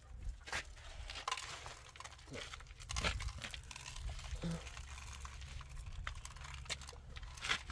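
Irregular crinkling and crackling with a few sharp clicks, over a low steady rumble.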